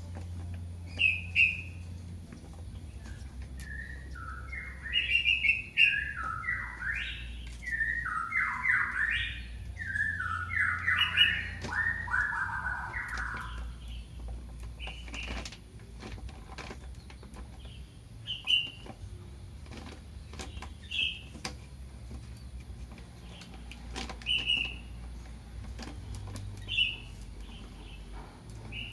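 Kitten mewing for its mother: a long run of rapid, overlapping high mews in the middle, with single short mews every few seconds before and after.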